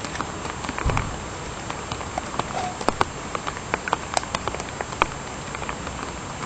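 Small wood fire crackling in a Fire-Spout wood-burning camp stove: sharp, irregular pops and ticks over a steady hiss, with light rain falling.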